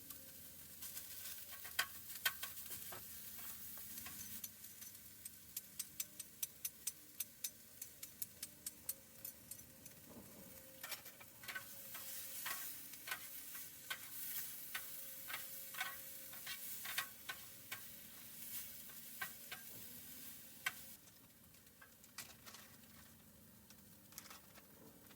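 Food sizzling in a pan, with many sharp pops and clicks, a few a second, that grow sparser and quieter near the end.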